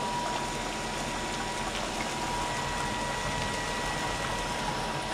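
Chopped onion and garlic sizzling steadily in a saucepan on a gas stove. A thin, steady high tone runs underneath.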